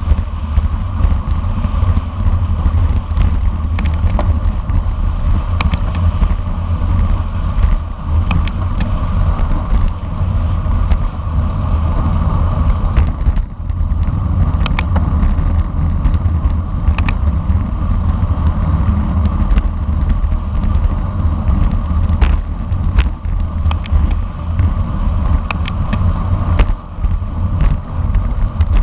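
Wind buffeting an onboard camera's microphone at racing speed, a loud steady rumble, with rattle from the road and scattered sharp clicks.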